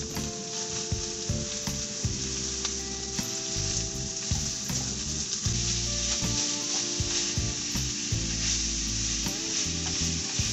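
Ground beef frying with onions and celery in a hot frying pan, a steady sizzle throughout. From partway through, a slotted spatula breaks up the meat and stirs it, adding light scrapes and clicks against the pan.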